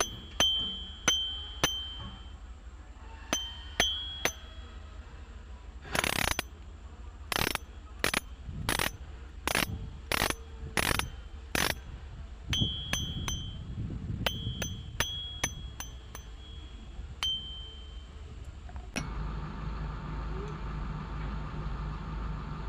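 Fishing reel's drag clicking in separate sharp clicks, many with a short metallic ring, with a run of louder clicks about every half second in the middle. About three-quarters of the way through, a steady low hum takes over.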